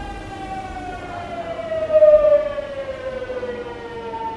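Hitachi GTO-VVVF traction inverter and motors of a Tokyu 9000 series electric train, giving a siren-like whine with many overtones. The pitch glides steadily downward as the train slows. It is loudest about halfway through.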